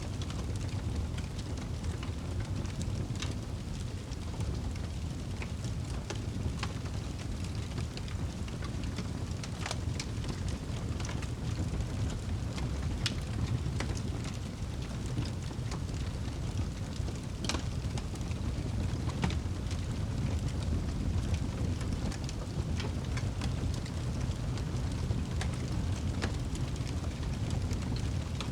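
Wood fire burning in a fireplace: a steady low rumble of the flames with frequent sharp crackles and pops from the burning logs, scattered irregularly.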